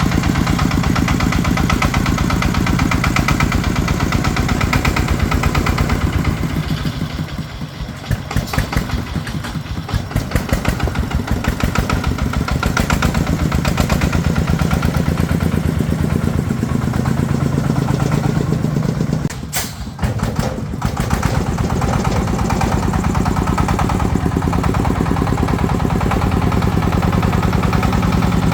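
Tractor engine running steadily. About a quarter of the way in it slows for a few seconds and its separate firing beats can be heard, then it picks up again. It dips briefly once more about two-thirds of the way through.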